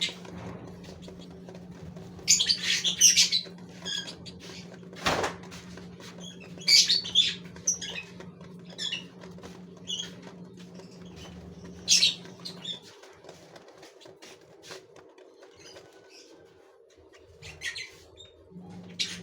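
Gouldian finches chirping in short bursts of high calls, with wing flutters and a single sharp knock about five seconds in. A steady low hum runs underneath and stops for a few seconds near the end.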